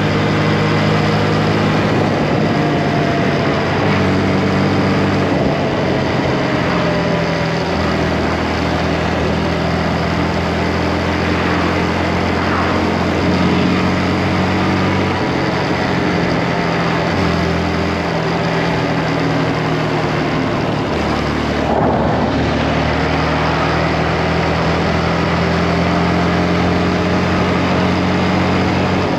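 Motorcycle engine running while riding, its pitch stepping up and down with the throttle, over steady wind noise.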